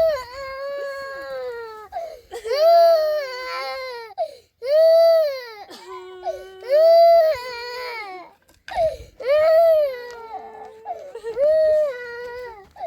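Infant crying hard: about six loud, high-pitched cries in a row, each about a second long, rising and then falling in pitch, with short catches of breath between them.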